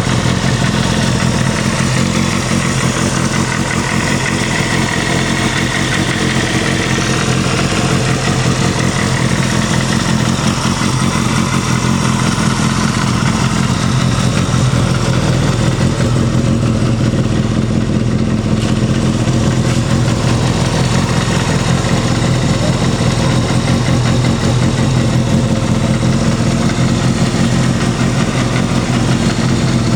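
Suzuki GSX250FX's 250 cc inline-four engine, fitted with an aftermarket muffler, idling steadily.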